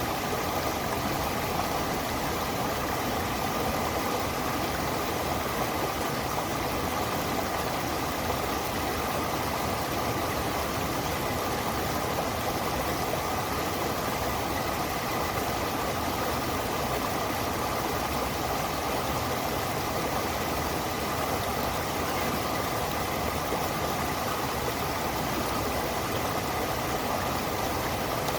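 Steady, unbroken rush of water flowing in a stream.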